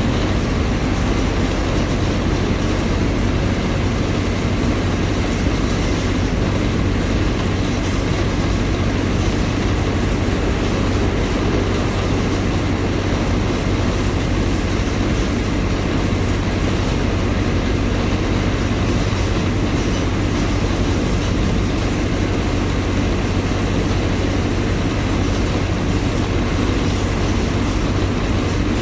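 Mercedes-Benz OF-1721 BlueTec 5 bus's diesel engine running steadily, mixed with the rolling noise of the bus under way.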